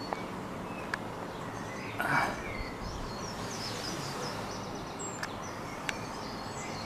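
Birds chirping and twittering over a steady background hiss. There are a few faint sharp clicks, and a short rustle about two seconds in.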